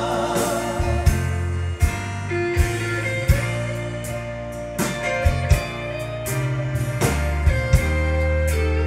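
Instrumental break in a country-gospel song: a guitar lead over a band with sustained bass and regular drum hits.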